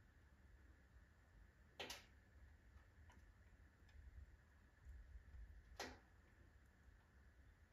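Firewood burning in a wood stove: quiet, with a low steady rumble and two sharp crackles, about two seconds in and near six seconds, plus a few faint ticks.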